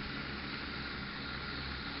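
Agricultural spraying drone with a 10-litre tank, its rotors running with a steady, even rush and a faint steady tone.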